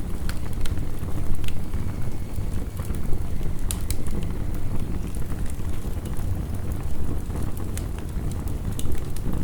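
Heavy rain as a steady low rush, with a wood fire crackling over it in scattered sharp pops.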